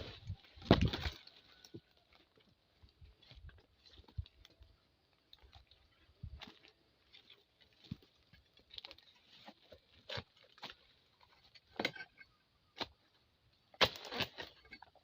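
Irregular knocks and cracks with light rustling from harvesting work among oil palm fronds. A loud crack comes about a second in, sparse knocks follow, and a quick run of knocks comes near the end.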